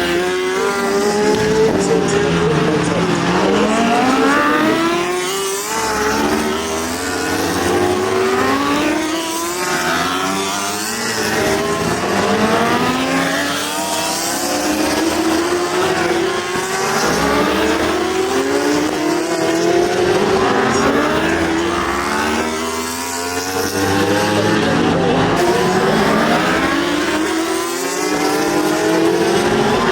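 Several racing superbike engines at high revs, their pitch climbing and dropping again and again as the bikes accelerate up through the gears, overlapping one another.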